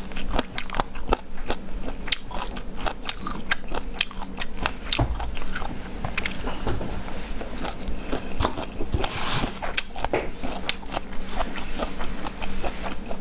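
Close-miked mouth sounds of chewing and biting soft, chewy, sauce-coated food: a dense run of wet clicks and smacks, with a short breathy rush about nine seconds in.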